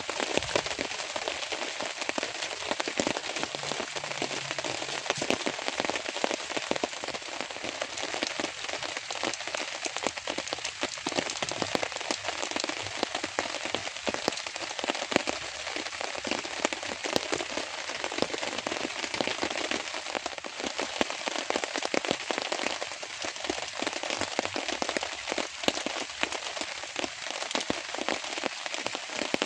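Steady rain, a dense even spread of many small drop hits with no letup.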